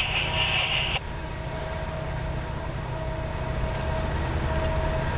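Diesel locomotive engines rumbling steadily, a low, even drone.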